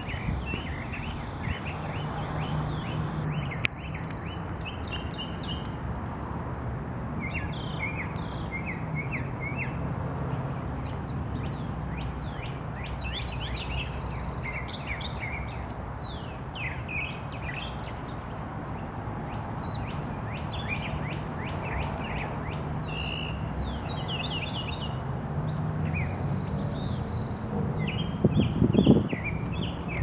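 Wild songbirds chirping and calling from the trees in short, quick clusters of high chirps, over a steady low background rumble. A louder burst of noise comes near the end.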